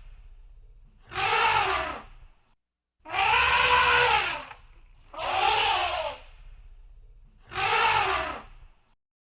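Elephant trumpeting: four loud, brassy calls about a second each, each rising and then falling in pitch, repeated roughly every two seconds.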